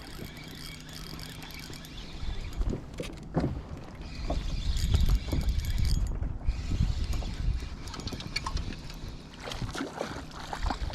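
Strong wind buffeting the microphone in low, gusty rumbles that grow heavier about four seconds in, with choppy water and scattered knocks against a small plastic boat.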